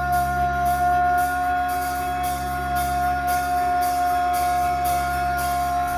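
Live rock band playing through a venue's sound system: a held, droning chord with a cymbal hit about twice a second, the whole band cutting off together at the very end.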